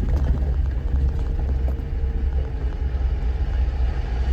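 Four-wheel-drive truck's engine and drivetrain pulling steadily under load in four-low while climbing a rough trail: a constant low rumble with scattered light knocks.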